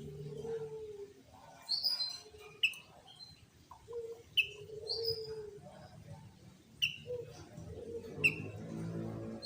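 Sooty-headed bulbul (kutilang) giving short, sharp, loud calls every second or two. Lower, drawn-out calls run underneath.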